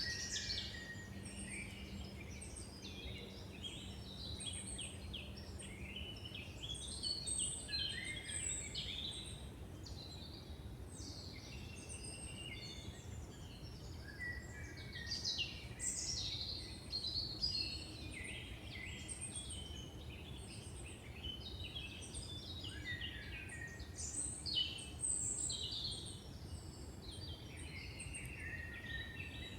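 Several songbirds singing at once in woodland, a dense mix of overlapping chirps, trills and whistled phrases, over a steady low background rumble.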